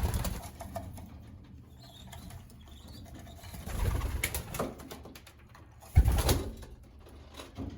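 Domestic pigeons cooing softly in a loft, with two louder rustling thumps about four seconds in and again about six seconds in.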